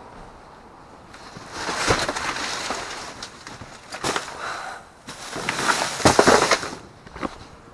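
Rummaging through a dumpster: plastic bags and packaged items rustle and crinkle as they are handled, in three bursts with a few sharp knocks, the loudest near the end.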